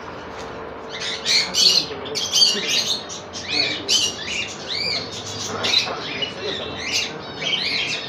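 Many caged parrots chirping and squawking over one another, a dense chatter of short, rapid calls throughout.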